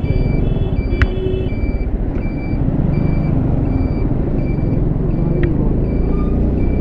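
Motorcycle engine and road traffic rumbling, with an electronic beep repeating evenly about every 0.6 s, like a vehicle's reversing or indicator alarm.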